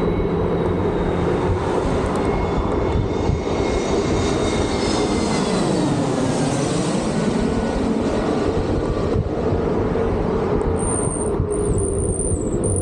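Steady wind and road noise from riding, with a vehicle going by, its pitch falling as it passes. A high whine comes and goes in short spells near the end.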